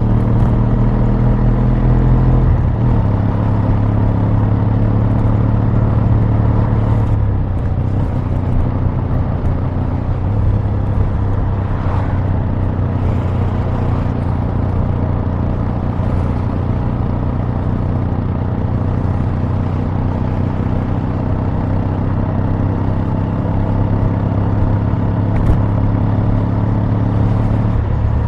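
Exhaust of a Kawasaki W800's air-cooled parallel-twin engine running steadily. Its pitch steps down about two and a half seconds in and shifts again around eight to ten seconds in, then holds steady.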